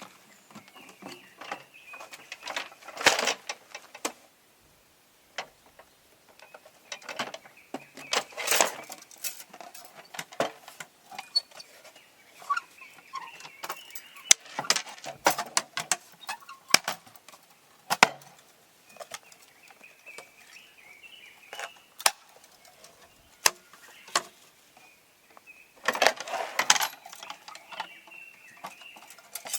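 Scattered clicks, clinks and knocks, with three short rustling bursts.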